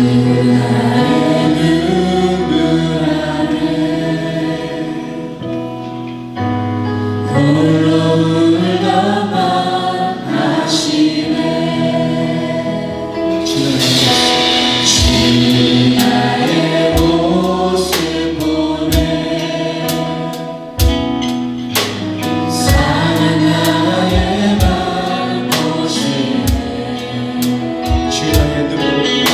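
Church praise band and singers performing a Korean contemporary worship song: voices sing over long held keyboard and bass notes, and a drum beat comes in about halfway.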